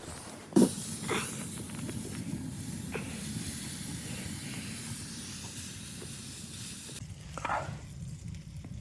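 A sharp knock, then a steady hiss that starts abruptly and cuts off suddenly near the end, with a few lighter knocks over it.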